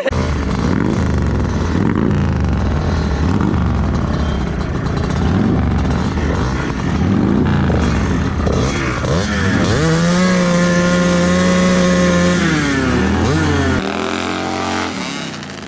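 Motorcycle engines revving hard at a drag strip, the pitch rising and falling. About ten seconds in, one engine is held at a steady high pitch for a couple of seconds, then drops off.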